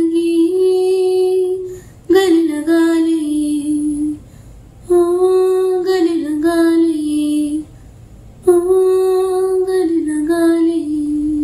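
A girl singing solo and unaccompanied: four slow phrases of long held notes, each stepping down in pitch at its end, with short breaths between them.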